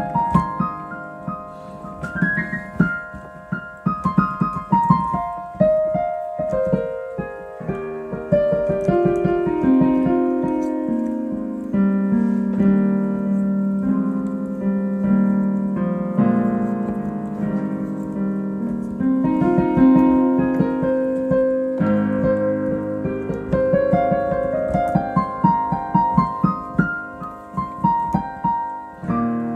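Solo piano playing an improvised piece: runs of notes rising and falling in the upper register over held low chords.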